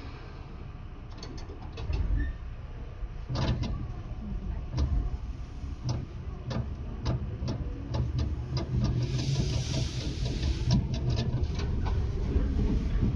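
Interior running sound of a Tobu 10030 series electric train, heard near the underfloor line breaker: a low steady hum with the wheels clicking over rail joints, growing louder. A brief hiss comes about nine seconds in.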